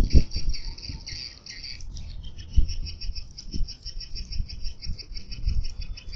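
Swiftlet lure sound: rapid, repeated high twittering chirps of edible-nest swiftlets, used to call the birds into a nest house. Low thuds sit underneath, loudest at the very start.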